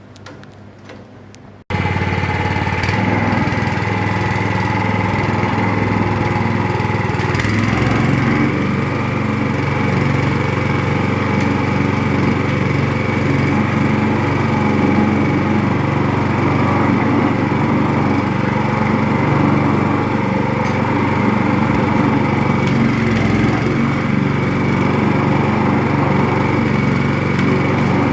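Coconut husk peeling machine running steadily with a loud, even mechanical hum. It comes in abruptly about two seconds in, after a short stretch of low background sound.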